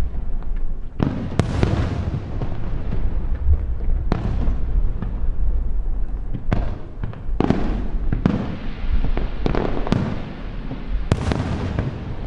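Aerial fireworks shells bursting in quick succession, about ten sharp bangs, each trailing off in a long rolling echo off the hills behind.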